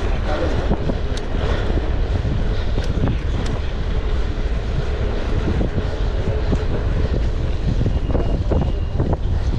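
Steady low rumbling noise with wind buffeting the microphone, and a few faint clicks.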